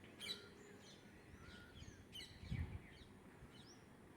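Faint, scattered chirps of small birds, a few short calls spread through the quiet, with a soft low thump about two and a half seconds in.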